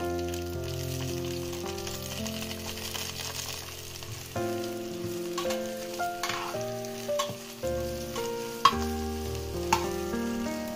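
Whole chillies, garlic, shallots and lemongrass frying in a little oil in a metal pot. There is a steady sizzle, and a spatula stirs and taps against the pot, with one sharp tap about nine seconds in. Soft background music plays underneath, with held notes.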